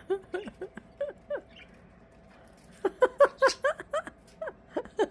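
Budgerigar chirping: short, downward-sliding chirps in three quick runs, each run several chirps long.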